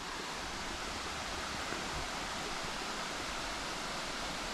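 Waterfall water running over rocks: a steady, even rush.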